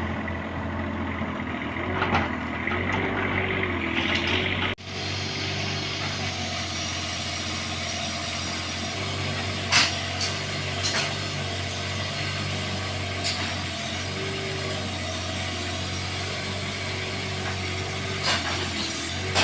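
Bobcat 322 mini excavator running steadily at work, with a wavering hydraulic tone over the diesel hum and a few short metallic knocks and clanks scattered through. The sound cuts out for an instant about five seconds in.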